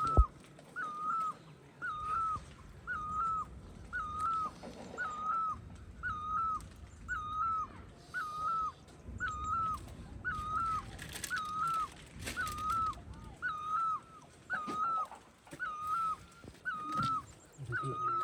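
An animal call repeated steadily, about once a second: the same short, fairly high call each time, with a low rumble underneath at times.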